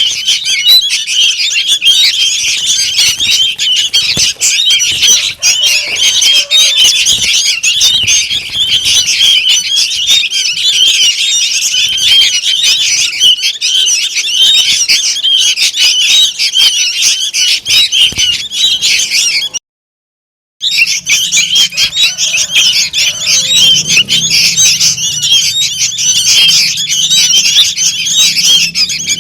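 Sooty-headed bulbul fledglings calling noisily: a dense, unbroken chatter of high chirps, played as a lure call to draw in bulbuls. The sound cuts out completely for about a second roughly two-thirds of the way through, then resumes.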